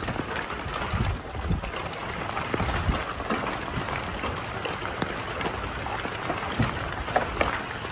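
Hail and rain falling and striking around the microphone: a steady hiss scattered with many short, sharp ticks, with gusty wind buffeting the microphone.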